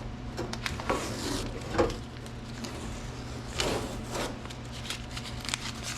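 Tape being peeled off a sheet-metal door patch panel in a few short rasping pulls, with light clicks and handling noise, over a steady low hum.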